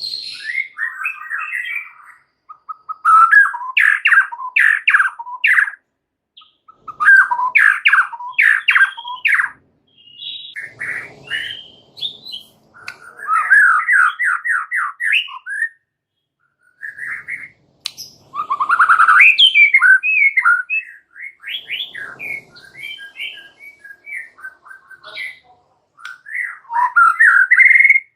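White-rumped shama singing in bursts of rapid, quickly rising and falling notes, each burst a second or two long with short pauses between, in full excited song.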